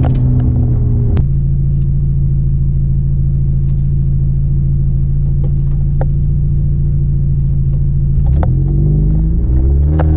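Mercedes-Benz C180 W202 rally car's 1.8-litre four-cylinder engine heard from inside the cabin, held at steady revs under power on a gravel stage, with a few sharp ticks of stones hitting the car. Near the end the revs rise and fall several times.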